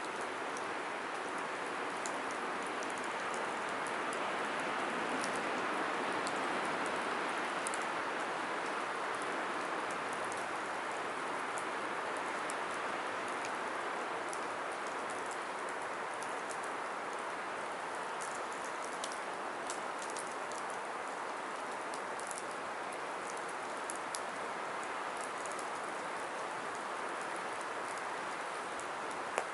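Firewood burning: a steady hiss of flames with scattered small, sharp crackles and pops, more frequent in the second half.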